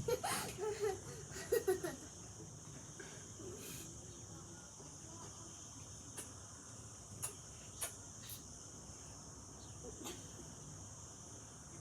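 Crickets trilling steadily in a high, even drone. A brief murmur of a voice comes in the first two seconds, and a few light clicks follow later.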